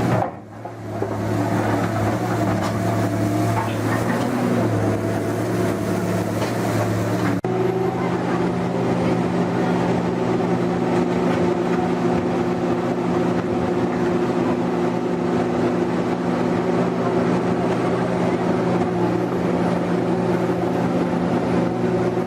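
A heavy vehicle's engine running steadily. The sound cuts off briefly about a third of a second in and shifts abruptly to a different steady engine note about seven seconds in.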